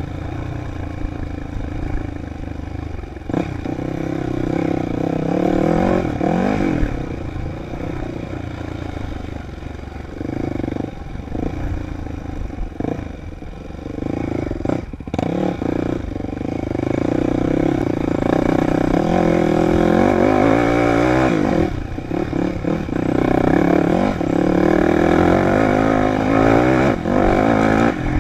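Dirt bike engine running under way, its pitch rising and falling again and again as it is revved and eased off.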